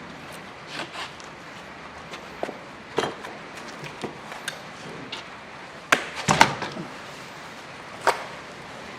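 Wood fire burning in the firebox of a traditional wood-fired pottery kiln during a slow bisque firing. A steady hiss runs under scattered crackles, pops and woody knocks, with a close cluster of sharp pops about six seconds in.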